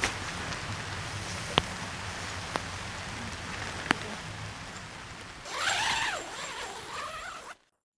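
Steady rain falling, with three sharp ticks in the first four seconds. A louder, wavering sound comes in about five and a half seconds in, and everything cuts off abruptly near the end.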